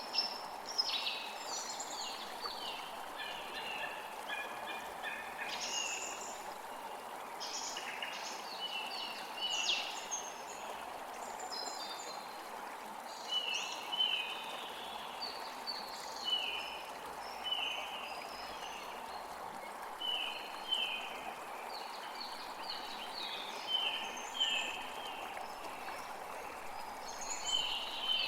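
Creek water flowing steadily, with songbirds singing over it: busy, varied song at first, then a bird repeating short falling notes about once a second.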